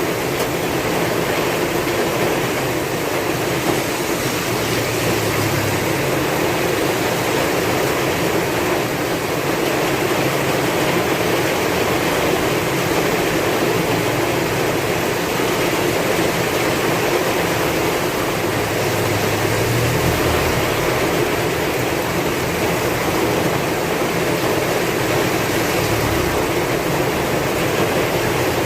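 Heavy rain falling steadily in strong wind, an even, unbroken hiss.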